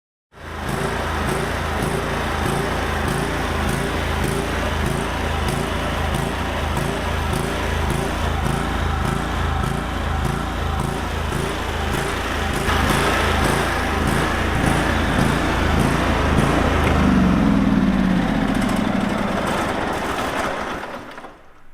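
Kohler Command V-twin engine of a Cub Cadet lawn tractor running with a regular pulsing, then winding down near the end. It is running rough, which the owner puts down to a plugged low-speed circuit in the carburetor.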